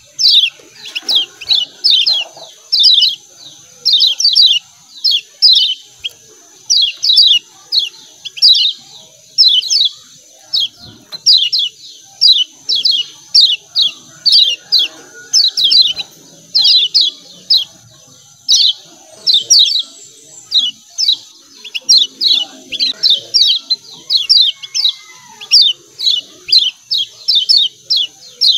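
Kecial kuning white-eye giving rapid 'ciak ciak' calls: quick clusters of short, high, downward-slurred chirps, repeating without pause over a steady high hiss.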